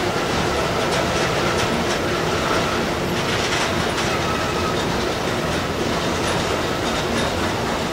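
Container freight wagons rolling steadily past on a curve, wheels clicking over the rails, with a faint high wheel squeal coming and going.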